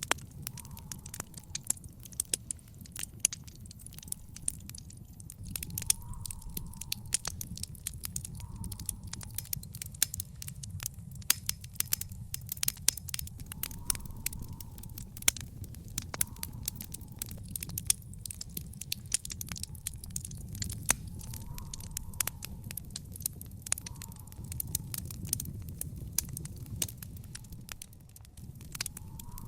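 Backyard fire pit fire crackling, with frequent sharp pops of varying loudness over a steady low rumble.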